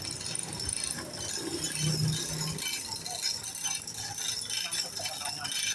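Light metallic clinking and rattling of tools and metal parts at intermittent, uneven moments, as in engine teardown work.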